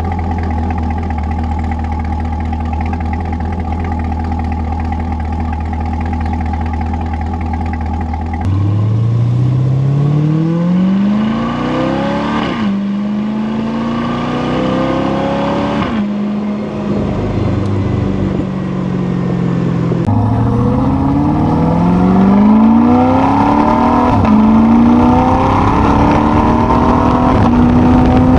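C8 Corvette V8 running through an AWE aftermarket exhaust: a steady low engine note, then from about eight seconds in hard acceleration with the pitch climbing and dropping sharply at quick gear upshifts, three times, before climbing again near the end.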